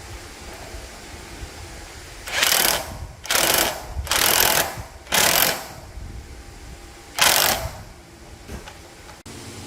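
Five short bursts of MIG welding crackle, tack welds laid one after another: four in quick succession about a second apart, then one more after a two-second gap.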